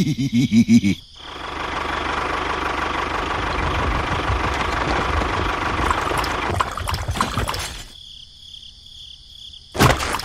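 A brief pulsing, voice-like sound, then a steady rushing, whirring noise for about six seconds with a faint steady tone in it, fading away. A sharp click comes near the end.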